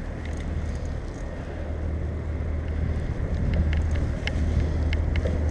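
Riding noise from a bicycle-mounted camera: a steady low rumble of wind and rolling tyres, growing a little louder a few seconds in. Scattered light clicks and rattles come from the bike over the last couple of seconds.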